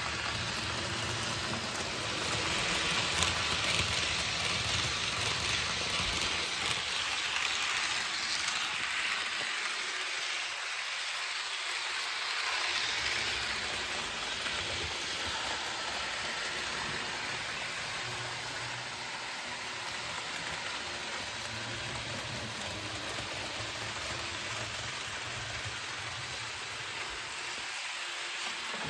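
HO-scale model train (AHM/Rivarossi Pacific steam locomotive with passenger cars) running along the track: a steady rattling hiss of metal wheels on rails over a low hum, which drops away for a few seconds about ten seconds in.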